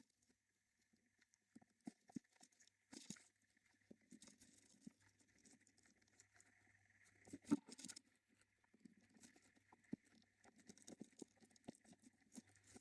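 Faint scattered scratching and tapping of a budgie moving about among its eggs and nest bedding, with one louder knock about 7.5 seconds in, over a faint steady hum.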